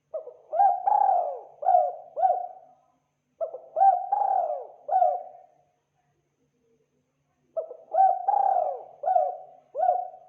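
Spotted dove cooing: three phrases of four or five short coo notes each, a couple of seconds apart.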